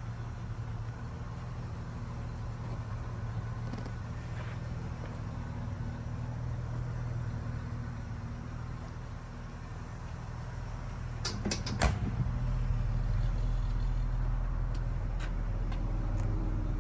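1976 Chevrolet Blazer running with a steady low hum. A quick cluster of clicks or knocks comes about eleven seconds in, and after it the low rumble gets louder.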